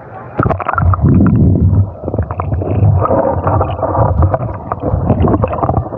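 Muffled low rumbling and gurgling of lake water around a camera plunged underwater, with scattered knocks and splashes, starting about half a second in.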